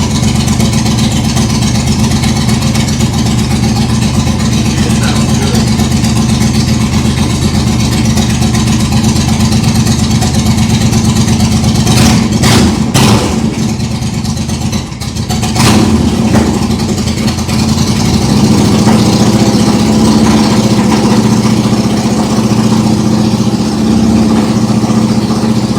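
A 2007 Yamaha V-Star 1100's air-cooled V-twin engine running steadily, with a couple of short changes in its sound around the middle.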